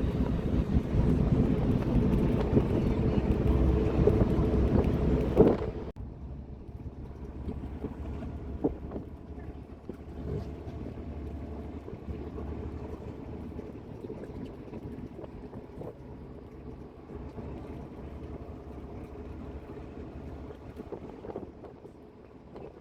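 An engine running steadily with a low drone, which stops abruptly about six seconds in; after that, quieter outdoor background with wind on the microphone.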